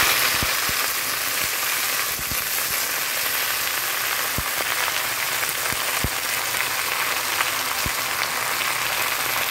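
Fresh jute leaves sizzling in hot mustard oil in a kadai: a steady, loud frying hiss with a few small pops scattered through it.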